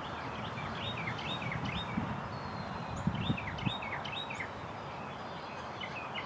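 Small birds chirping in quick runs of short high notes over a steady outdoor noise hiss, with a few soft low thumps in the middle.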